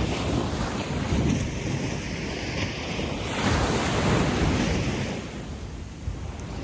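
Gentle surf washing up a sandy beach, with a steady low rumble. A wave surges in about halfway through and then fades as it washes back.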